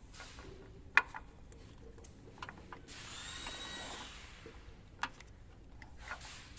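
Metal tools and engine parts being handled during timing-chain work: a sharp metal clink about a second in, another near five seconds, and light clattering and a brief ringing sound between.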